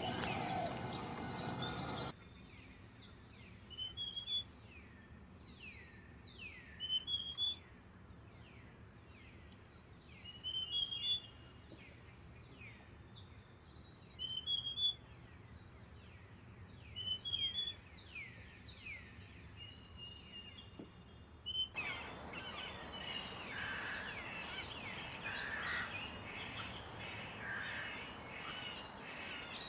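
Forest birdsong. After a louder noisy passage that cuts off about two seconds in, one songbird repeats a short phrase of falling notes about every three seconds over a steady high-pitched drone. Near the end this gives way to a fuller chorus of several birds over a rushing background.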